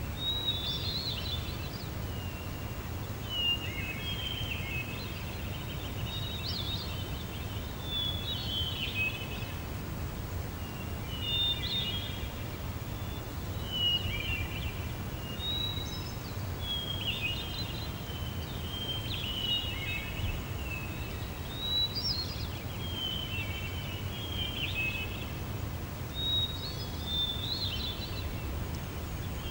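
A songbird singing short, warbling phrases, one every two seconds or so, over a steady low rumble.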